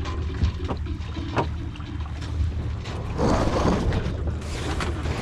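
Sailing yacht underway: water rushing along the hull and wind on the microphone over a steady low rumble, with a few light knocks in the first half and a louder swash of water about three seconds in.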